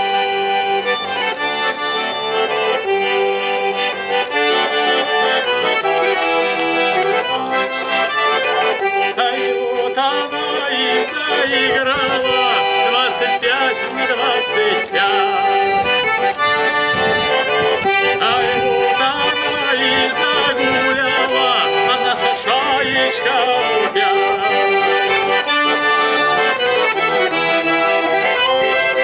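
Russian garmon (button accordion) playing a folk dance tune alone, the instrumental accompaniment to chastushki between sung verses.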